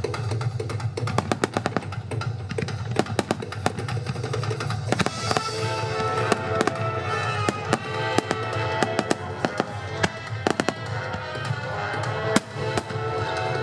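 Fireworks shells bursting in quick succession, many sharp cracks and bangs, over big-band swing music with drums.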